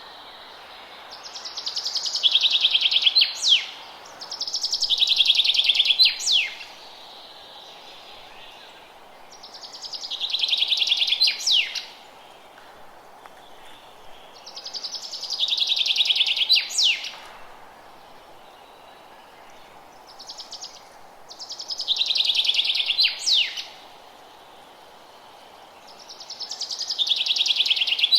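A songbird singing the same song over and over, about every five to six seconds: a rapid high trill that steps down in pitch and ends in one or two sharp downward-slurred notes. A steady low hiss of ambience runs beneath.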